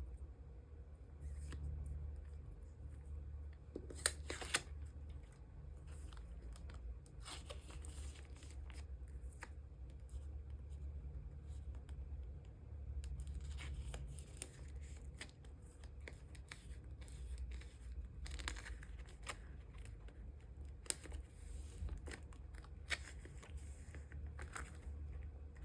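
Photocards and plastic sleeves being handled: short crinkling rustles, light scrapes and small clicks, on and off, over a low steady hum.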